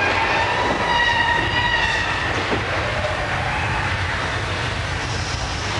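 Staged subway-train crash in a studio earthquake set: a continuous rumble of rail and mechanical noise, with a steady high metallic screech over the first two seconds.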